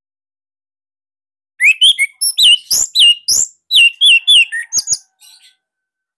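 Orange-headed thrush (anis merah) singing a rapid run of about a dozen loud, sharp, sweeping whistled notes. The run starts about a second and a half in and breaks off about five seconds in, followed by a few faint notes.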